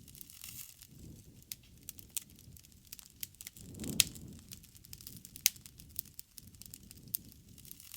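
Wood fire burning: irregular sharp crackles and pops over a soft low rumble of flame. The loudest pop comes about halfway through, as the rumble swells.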